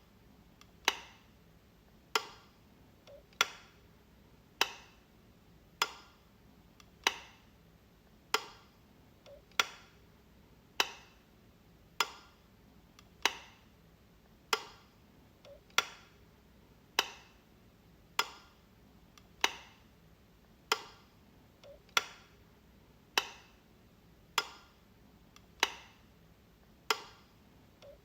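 Light switch flicked over and over, one sharp click about every second and a quarter, in a steady even rhythm.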